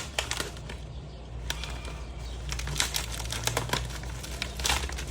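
Packaging wrap being pulled off a small item by hand: irregular crinkles, rustles and light clicks.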